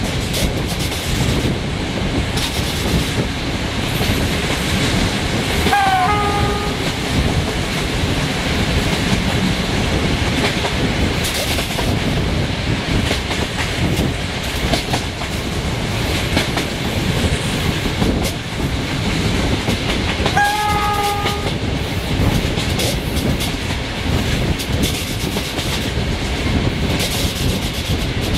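Passenger carriages of a train hauled by a 060-DA diesel-electric locomotive running along the track, wheels clicking over rail joints. Two short blasts of the locomotive's horn, one about six seconds in and one about twenty seconds in, each rising briefly in pitch as it starts.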